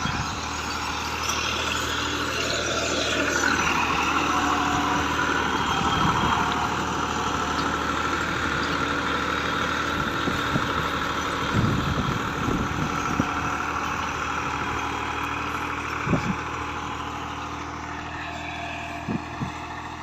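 Massey Ferguson 260 tractor's three-cylinder diesel engine running under load while pulling a disc harrow. It grows louder over the first few seconds, then slowly fades, with a few short low thumps along the way.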